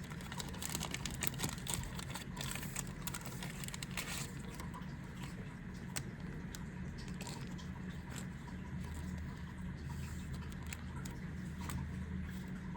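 Crinkling foil wrapper of a Yu-Gi-Oh! booster pack and cards being handled: a dense run of crackling clicks in the first few seconds, then sparser clicks, over a steady low hum.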